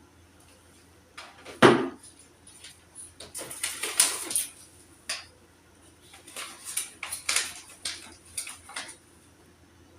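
Household items being handled during sorting: a single sharp knock just under two seconds in, then several short spells of rustling and clicking.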